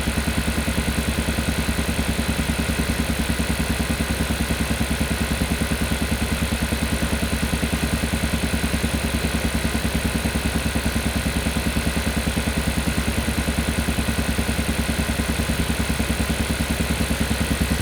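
Kia Carnival Hybrid engine running with a steady, fast, even thudding pulse, the 'puk-puk-puk' noise the owner is complaining about.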